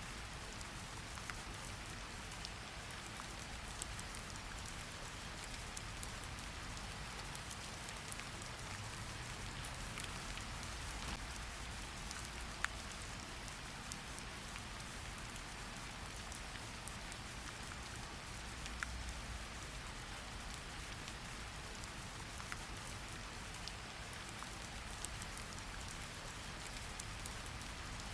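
Steady rain falling, with a constant hiss and scattered sharp ticks of individual drops hitting a surface.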